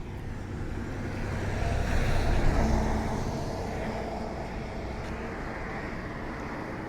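A car passing on the road, its engine and tyre noise swelling to a peak about two to three seconds in and then fading.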